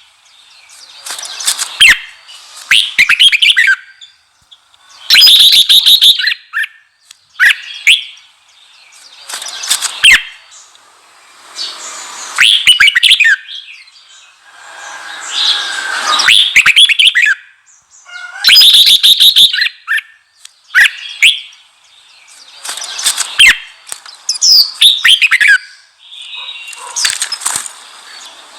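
Red-whiskered bulbul singing a loud, fired-up song: phrases of sharp, fast-sliding chirps and warbles, each a second or two long, with short pauses between them. This is the kind of intense song played to provoke wild-caught bulbuls into singing back.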